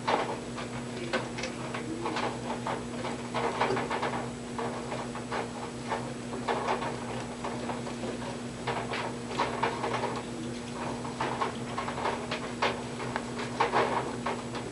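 Irregular light scratching and clicking, several a second, over a steady low electrical hum.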